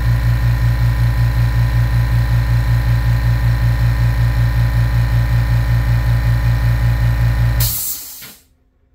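Makita MAC210Q quiet-series 2-gallon, 1 hp air compressor running with a steady hum and a fast, even pulse, then shutting off near the end and winding down in about half a second, the pressure switch cutting out as the tank reaches full pressure.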